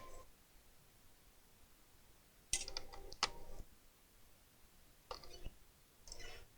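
Plastic laptop parts being handled during disassembly: a click at the start, a cluster of clicks and rattles about two and a half seconds in with one sharp click, then two shorter rattles near the end.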